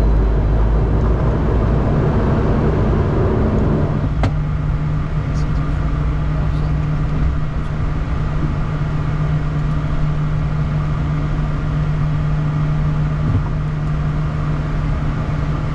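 Bombardier Challenger 350's twin turbofan engines and airflow noise during the departure, a steady loud drone with a low hum. About four seconds in there is a click, and after it the deeper rumble eases.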